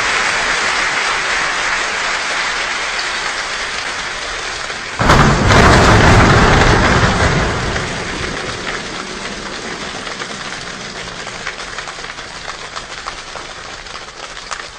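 A group of performers imitating a rainstorm: a steady rushing patter of rain fades, then a sudden loud thunder crash about five seconds in lasts a couple of seconds. After it the rain thins out to scattered separate taps, like the last drops.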